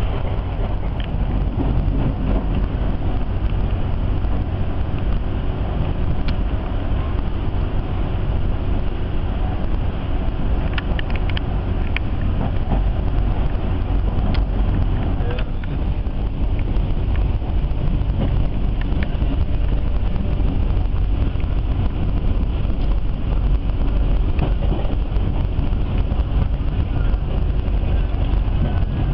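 Steady low rumble of a moving passenger train heard from inside the coach, its wheels running on the rails, with a few faint clicks midway.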